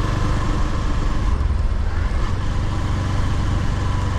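Motorcycle engine running steadily while riding, a continuous low rumble with road noise.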